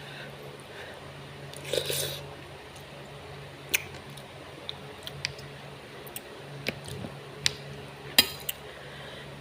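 Close-miked eating sounds: a short wet, noisy burst about two seconds in, then a series of about eight sharp clicks and taps from chewing and handling the food. A steady low hum runs underneath.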